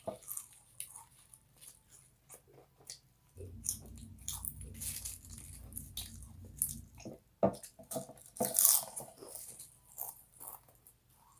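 Chips being bitten and chewed close to the microphone: sharp, irregular crunches, the loudest one about two-thirds of the way through. A low rumble runs underneath for a few seconds in the middle.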